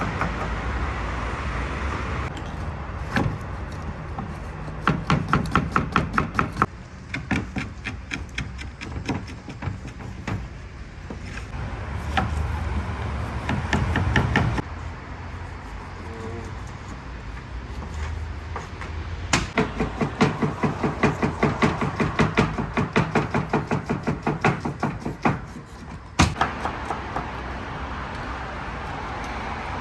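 Runs of rapid, evenly spaced knocks, about five or six a second, over a steady background rumble, with a single sharp knock near the end.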